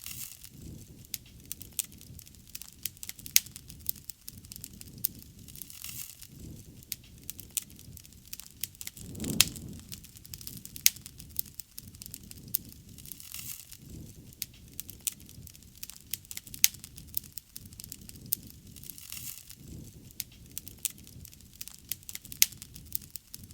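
Wood fire burning: irregular sharp crackles and pops of burning wood over a steady low flutter of flames, with a louder burst about nine seconds in.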